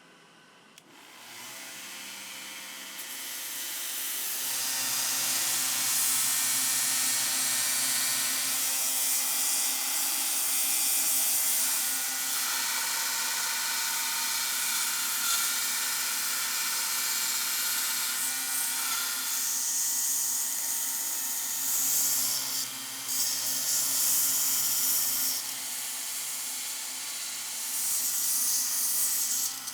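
Small power tool running steadily, a motor hum under a high hiss. It starts about a second in and builds up over the next few seconds.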